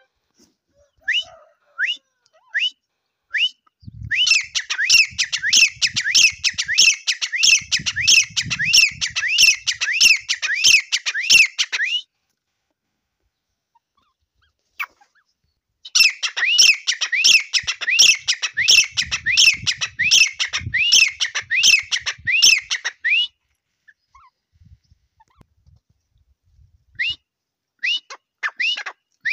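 Grey francolin (teetar) calling: a few single rising whistled notes, then two long bouts of fast repeated rising notes, each lasting seven or eight seconds, with a few seconds' pause between them. Single notes return near the end.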